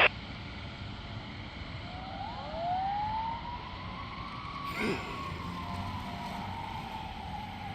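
Fire engine siren winding up to a peak and then slowly winding down, over the truck's steady rumble. A short click comes right at the start, and a brief louder sound comes about five seconds in.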